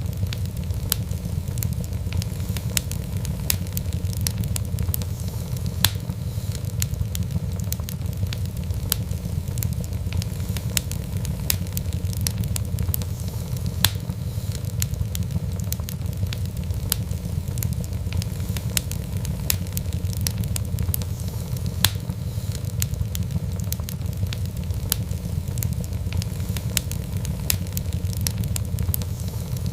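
Wood fire burning in a fireplace: a steady low rumble of flames with frequent irregular crackles and pops, a few of them sharper.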